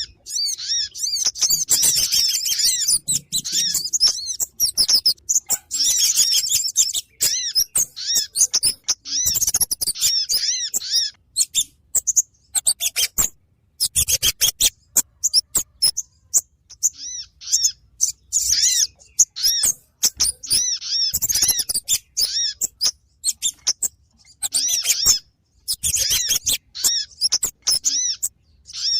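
Small songbirds giving rapid, high, repeated chirping calls in quick runs of about a second with short pauses between. These are lure calls used to draw in kemade and sogon birds.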